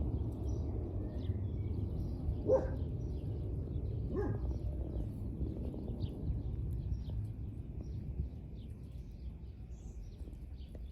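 Songbirds chirping and twittering in the background, over a steady low rumble of wind. Two louder animal calls stand out about two and a half and four seconds in.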